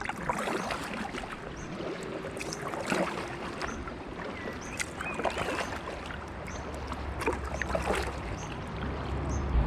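Kayak paddles dipping and splashing, with water slapping against the inflatable kayak's hull. Wind rumbles on the microphone and grows stronger near the end.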